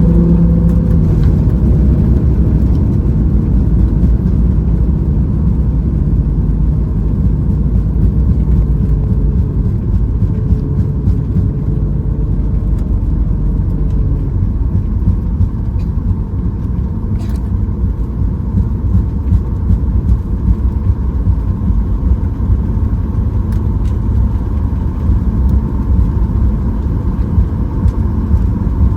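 Steady low cabin rumble inside a Boeing 737 MAX 8: engine and airflow noise, with faint engine tones in the first few seconds.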